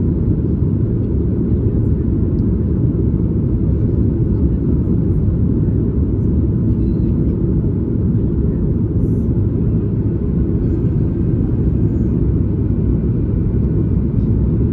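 Steady low rumble inside the cabin of a Boeing 737 MAX 8, from its CFM LEAP-1B engines and the airflow, heard from a window seat just behind the wing.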